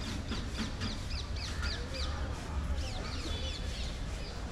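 Birds calling, a rapid run of short, high, falling chirps repeated throughout, over a steady low rumble.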